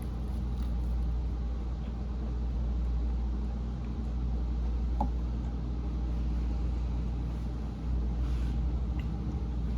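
A steady low rumble, with a faint click about five seconds in and another near the end.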